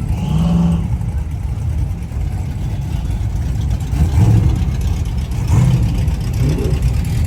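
Car engine rumbling steadily, with a few short swells in pitch and a brief rise near the end like light revs.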